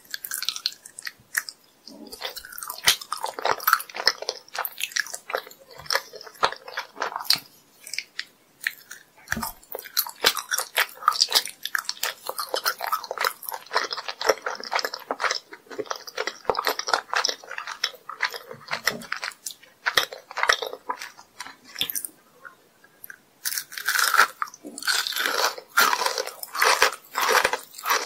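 Close-miked chewing of sugar-crusted jelly candies: crisp, crackly crunching bites with softer chewing in between. After a brief pause near the end, a louder run of crunching comes from biting into a crystal-crusted purple kohakuto agar jelly.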